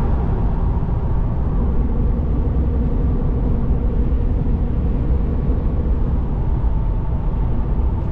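Steady road and engine noise of a Dodge pickup truck on the move, with a deep, even rumble.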